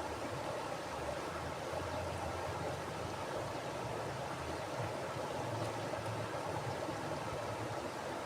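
A mountain river flowing over rocks: a steady, even rush of water without a break.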